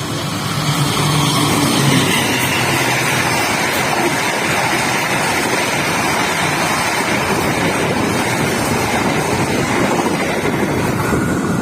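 A train passing close by: steady rolling and wheel noise that builds over the first two seconds and then holds loud.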